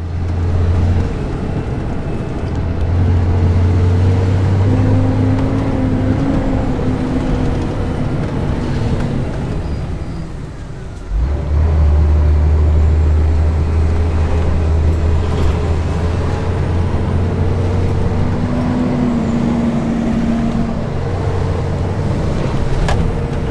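Scania R420 truck's diesel engine running under load on a mountain road, a steady low drone with a faint whine over it. About ten seconds in it eases off briefly, then comes back louder, as with a gear change.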